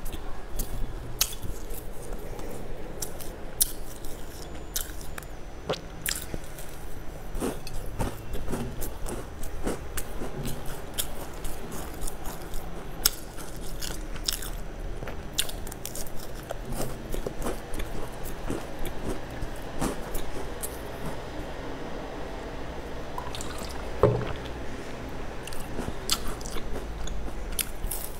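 Close-miked biting and chewing of crisp sesame-coated bars, with many small crunching crackles and one louder crack near the end.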